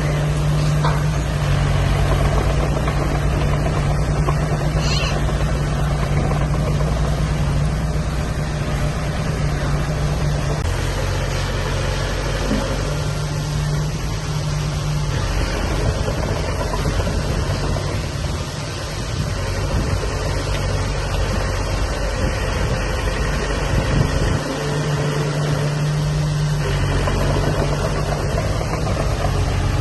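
Heavy diesel engine of earthmoving machinery running continuously, its note shifting several times as the load and revs change.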